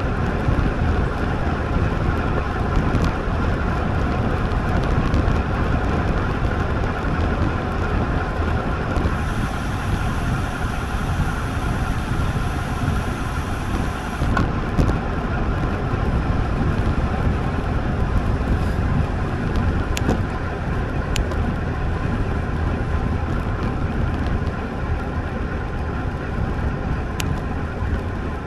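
Steady rush of wind and road noise while riding a road bike, the wind buffeting the ride camera's microphone, with three sharp clicks in the second half.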